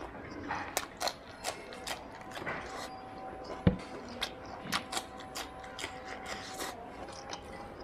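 Close-up chewing of mutton curry and rice: a string of wet mouth smacks and clicks, with one sharp thump about three and a half seconds in and a faint steady hum underneath.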